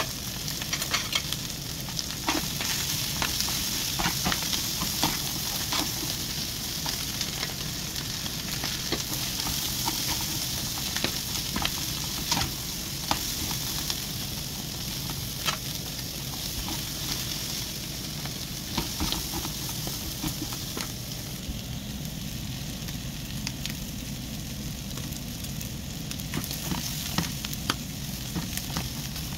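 Pieces of lung with sliced onions and green chilli peppers frying with a steady sizzle in a metal pan. A metal spoon stirs them, clicking and scraping against the pan now and then.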